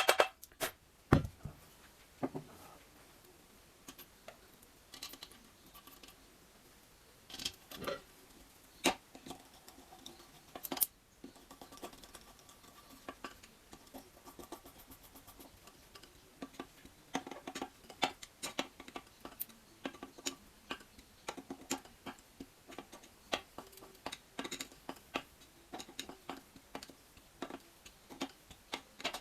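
Scattered light clicks, clinks and knocks of hand tools and small metal engine parts being handled, irregular with quiet gaps. The clicks come more often in the second half.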